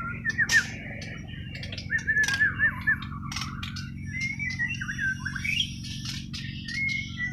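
Bornean white-rumped shama (murai Borneo) singing a run of whistled notes that glide up and down, broken by sharp clicking notes, over a steady low hum.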